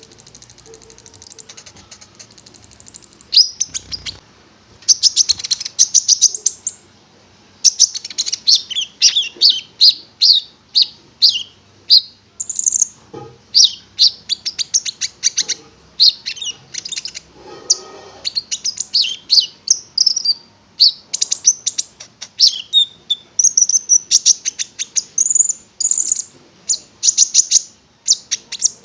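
A konin songbird singing energetically in rapid strings of short, high-pitched chirps and trills, phrase after phrase with brief pauses between them.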